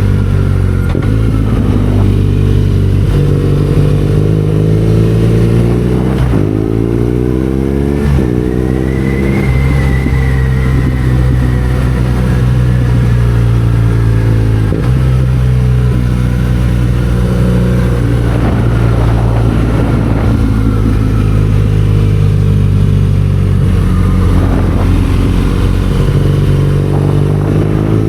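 BMW R nineT Scrambler's 1170 cc boxer twin running under way. It climbs in pitch as the bike accelerates and drops back at each gear change, several times.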